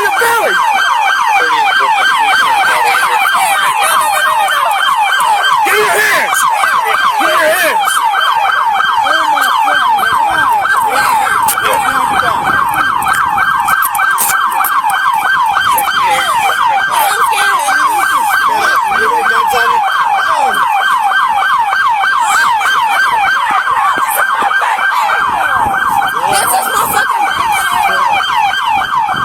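Police car siren sounding in a fast, steady yelp, its pitch sweeping up and down several times a second, during a pursuit.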